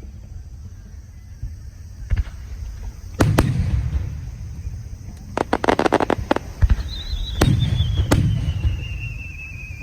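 Aerial fireworks bursting: single booms, a quick volley of crackling pops around the middle, then more booms. From about seven seconds in, a long whistle slides slowly down in pitch.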